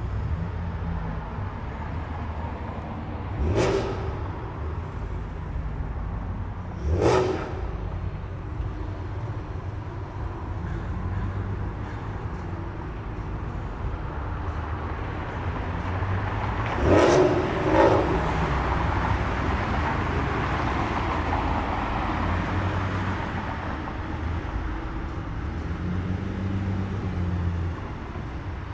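Car engines running at low speed as cars roll past, a steady low rumble broken by short, loud, sharp bursts: one about three seconds in, one about seven seconds in, and two close together about seventeen seconds in.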